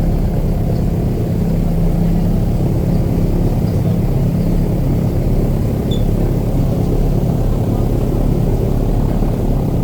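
Airboat engine and propeller running steadily, a loud, even low drone.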